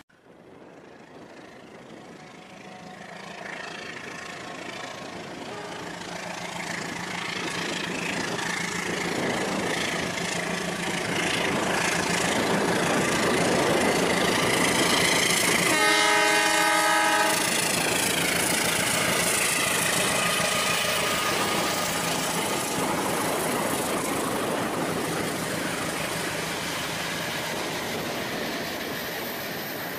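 A train passing: rumbling rail noise that builds to a peak around the middle and then slowly fades. A single horn blast of about a second and a half sounds just past the middle.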